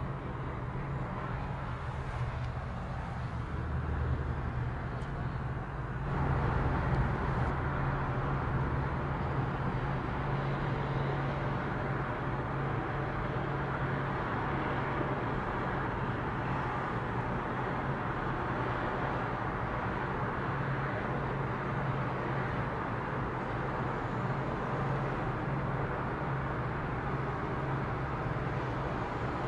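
Steady vehicle running noise with a constant low hum, growing louder about six seconds in.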